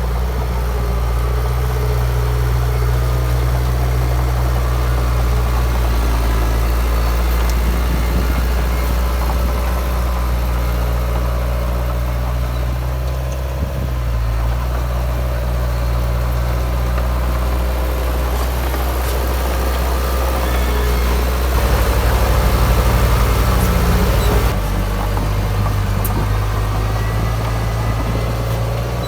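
Heavy diesel engine of earthmoving machinery running steadily, rising in loudness for about three seconds roughly two-thirds of the way through, then settling back.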